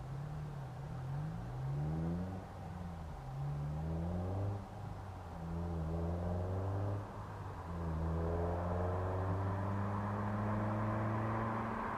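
K24/K20-swapped Honda Civic's inline-four with a Skunk2 70 mm exhaust and gutted catalytic converter, accelerating hard through the gears: the pitch climbs and drops back at about three upshifts, then holds higher and steadier over the last few seconds.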